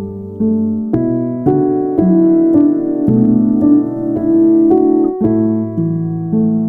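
Piano music: a slow, even run of notes and chords struck about twice a second, each one ringing on into the next.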